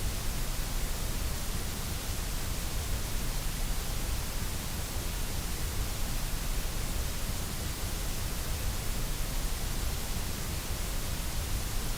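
Continuous synthetic white noise: an even, steady hiss that does not change.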